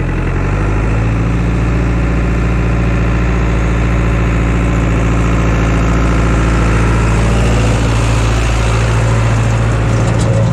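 Case JX85 tractor's diesel engine running steadily, its pitch stepping up slightly about a second in.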